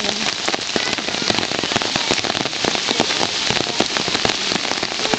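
Steady rain, with a dense patter of individual drops striking close by.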